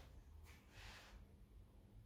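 Near silence: room tone with two faint, soft rustling sounds in the first second.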